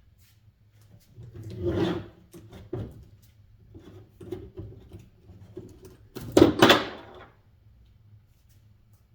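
Metal fan-motor parts and screws being handled on a workbench: a scraping rub a little under two seconds in, a few light knocks and clicks, then a louder double knock just after six seconds.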